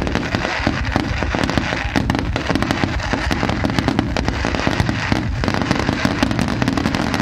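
Fireworks display: a dense, continuous run of pops and crackles with no let-up.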